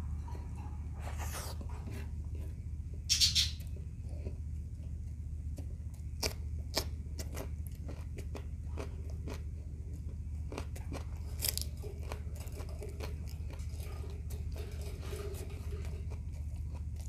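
Close-miked chewing and crunching of fried shrimp and rice, with many small mouth clicks and a louder crunch about three seconds in and another past the middle. A steady low hum sits underneath.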